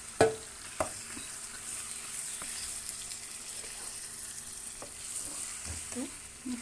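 Raw chicken pieces sizzling as they fry in hot oil with browned onions, over a steady hiss. A spoon knocks against the pan a few times as the chicken is stirred in, most sharply just after the start.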